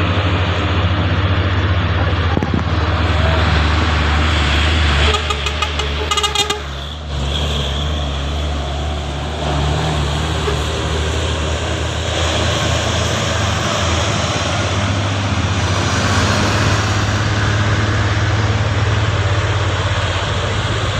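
Heavy truck engine running steadily with a deep drone, among road and traffic noise.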